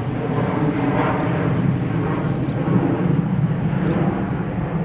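Steady low rumble of an approaching train, heard before it reaches the closed level crossing.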